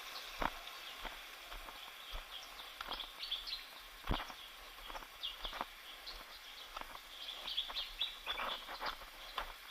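Footsteps on a jungle trail, irregular sharp steps, with birds chirping throughout.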